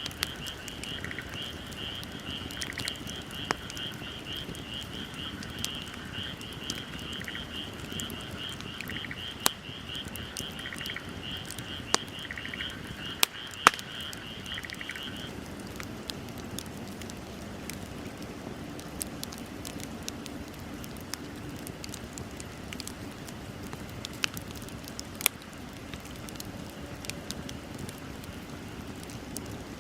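Wood bonfire crackling, with scattered sharp pops over a steady low rustle. For the first half, a high, rapidly pulsing animal call (a frog-like trill) runs alongside, joined every couple of seconds by a lower call, and then stops about halfway through.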